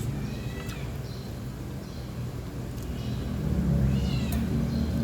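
Cat meowing: several short, high, arching meows, the clearest about four seconds in, over a steady low hum.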